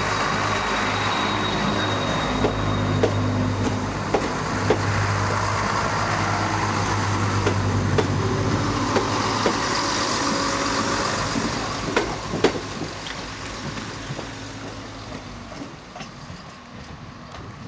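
Class 168 Turbostar diesel multiple unit running steadily with its engine hum, wheels clicking irregularly over rail joints. It fades away over the last few seconds as the train draws off.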